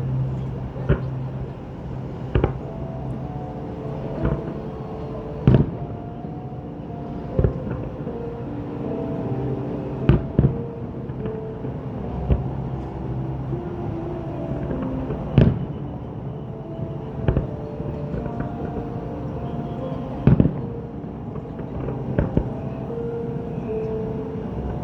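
Fireworks shells bursting in the sky, a sharp bang every second or two, over music that plays along with the display.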